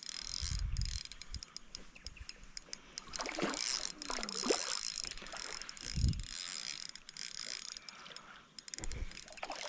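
Fishing reel being wound in, its gears and ratchet clicking steadily, with a couple of dull thumps of handling.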